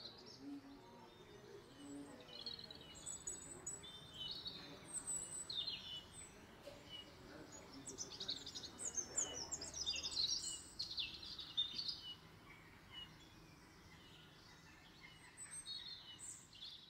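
Birds chirping and twittering in quick runs of short, high, falling chirps. They are busiest about halfway through, thin out, then return briefly near the end, over a faint steady background hiss.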